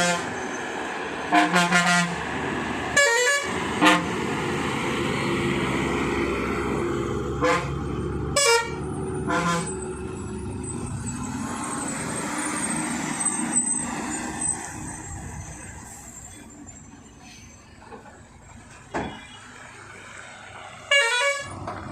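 Heavy truck engines running on a climbing hill road, broken by a series of short horn blasts in the first ten seconds. The engine sound fades away after about fourteen seconds, and one more horn blast sounds near the end.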